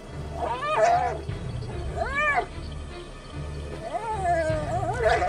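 Spotted hyenas squealing during a fight, a series of about four high calls, each rising and falling in pitch, over low pulsing music.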